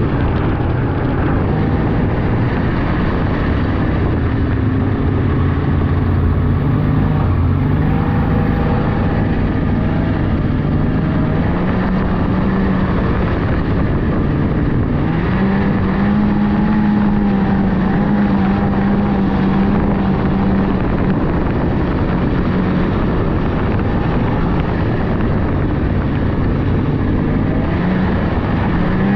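Polaris 600cc two-stroke snowmobile engine running under way on a trail, its pitch climbing steadily over the first dozen seconds. It then holds steady, eases off for a few seconds, and picks up again near the end.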